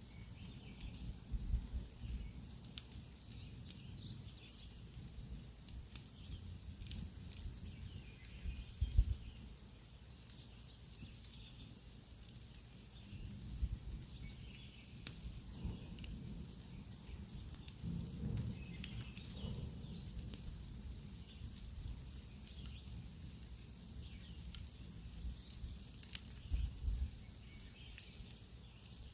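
Wood campfire crackling, with sharp pops scattered irregularly throughout. Low rumbling swells come and go a few times.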